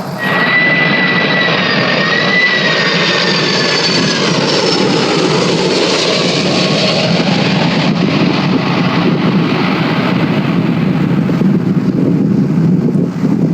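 Jet airliner passing at close range. A high engine whine falls slightly in pitch over the first few seconds over a loud, steady engine roar.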